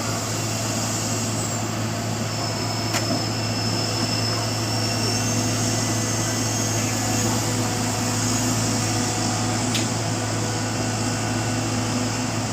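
A vehicle engine running steadily, a constant low hum under an even hiss.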